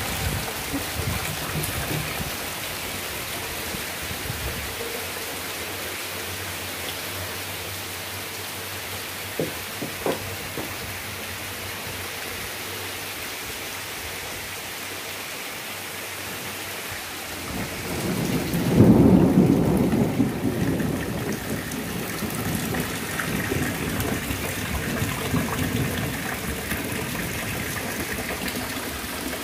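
Steady rain falling, with water pouring off a roof edge. Past the middle a low rumble of thunder swells and fades over a few seconds.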